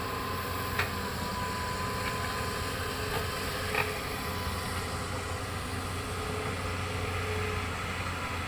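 Hitachi excavator's diesel engine running steadily with a low hum, with a couple of short faint clicks, about a second in and near the middle.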